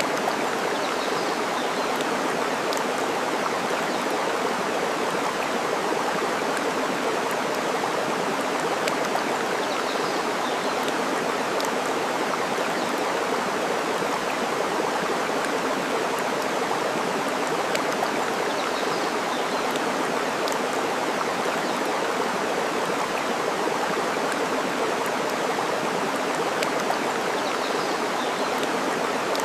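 Steady rushing of flowing water, with a few faint crackles from burning wood scattered through it.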